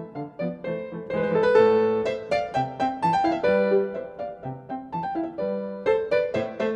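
Background piano music: a steady run of struck notes, several a second, with chords in the low register.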